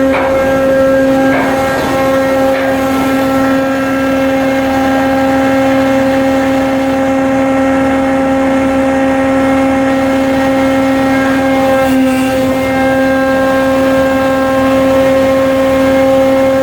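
Coastal cargo ship's diesel machinery running at a steady speed, a loud, unchanging hum with a strong low tone. A few light knocks in the first three seconds.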